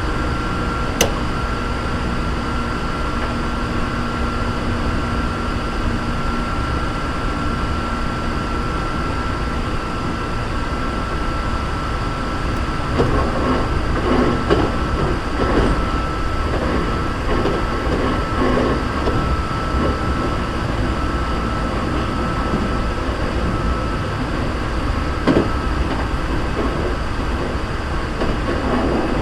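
Hankyu 3300 series electric train heard from inside the car while running at speed: a steady rumble of wheels and running gear with a constant high-pitched tone. Irregular clattering from the track comes and goes through the middle, with a couple of sharp clicks.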